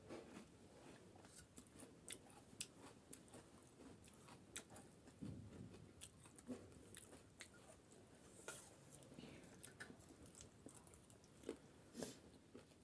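Faint, close-up chewing and crunching of crisp street snacks (pani puri shells and chatpate), with scattered sharp crackles as the crunchy pieces are bitten.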